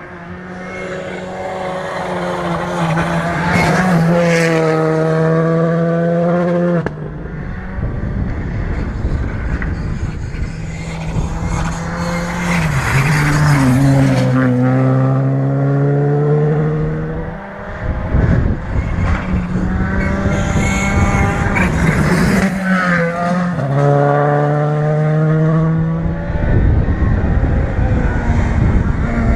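Rally cars on a gravel special stage going by one after another. Each engine revs hard, its pitch climbing and dropping with the gear changes and throttle lifts. Tyre and gravel noise runs underneath, and the sound switches abruptly from one car to the next about 7 seconds in and again around 17 seconds.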